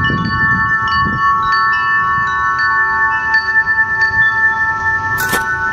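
Wind chimes ringing, with many overlapping notes struck one after another and ringing on. There is one sharp click about five seconds in.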